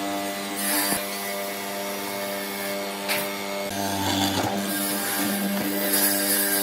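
Electric power tool motor running at a steady speed with a constant whine, with short bursts of cutting noise as it works the wood.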